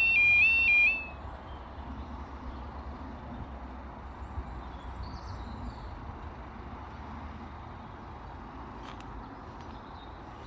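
Level crossing's two-tone warning alarm alternating high and low, about two cycles a second, then cutting off about a second in, which at a manually controlled barrier crossing marks the barriers reaching the down position. After that, a steady low outdoor rumble with a faint bird chirp.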